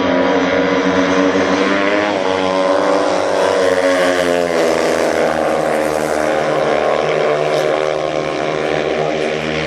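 Two speedway motorcycles, 500 cc single-cylinder methanol engines, racing at full throttle around the oval. Their engine pitch rises and falls continuously.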